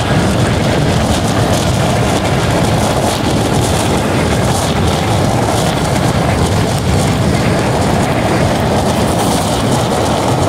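Passenger train running at speed: a steady, unbroken rumble and rush of noise.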